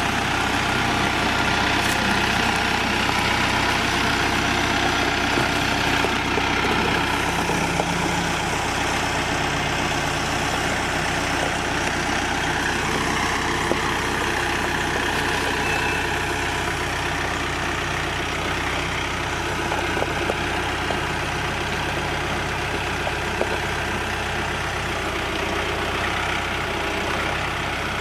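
Tractor engine running steadily, with a few faint clicks.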